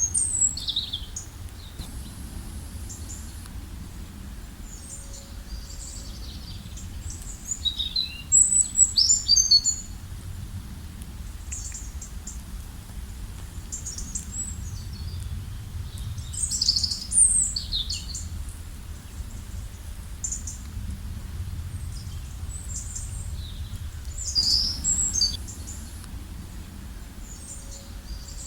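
Forest songbirds singing: scattered high chirps and trills from several birds, with louder bursts about a third and two thirds of the way through, over a steady low background hum.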